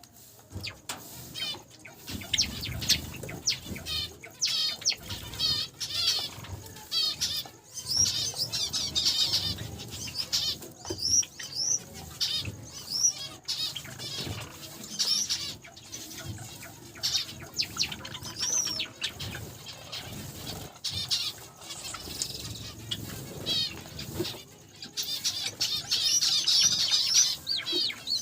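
A mixed flock of small cage finches (Java sparrows, zebra finches, Gouldian and Bengalese finches) chirping and calling continuously in quick, repeated high notes, with wings fluttering.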